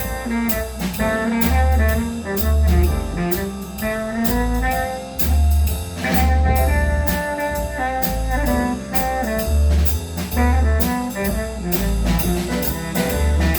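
A jazz band playing, with brass and saxophones carrying the melody over a drum kit keeping a steady beat.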